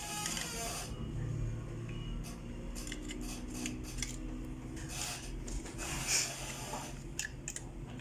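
Hard plastic parts rubbing and clicking as a laser printer's fuser unit and its small locks are handled and fitted back into the printer, with several sharp clicks in the second half.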